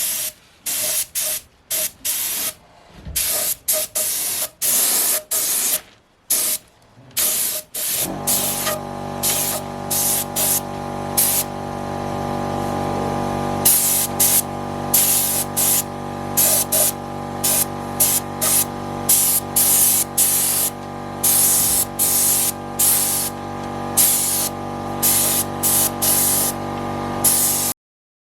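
Paint spray gun hissing in short, repeated bursts with each trigger pull as etch primer is sprayed onto a boat hull. From about eight seconds in, a machine starts humming steadily underneath. The sound cuts off abruptly near the end.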